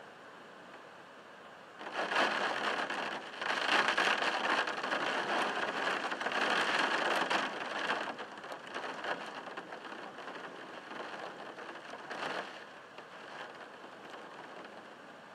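Heavy rain pelting a window glass in gusts: a faint patter surges to a loud, dense drumming about two seconds in, eases after about six seconds, and comes back briefly near the end.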